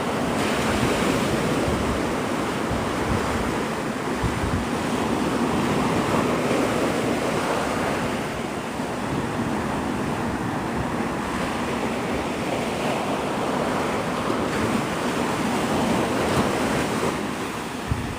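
Gulf surf breaking and washing on the beach, a steady rushing that swells and eases, mixed with wind buffeting the microphone.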